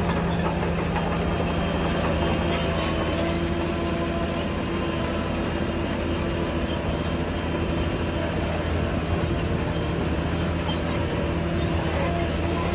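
Shantui DH17C3 crawler bulldozer at work, its diesel engine and steel tracks making a continuous mechanical drone with steady low tones.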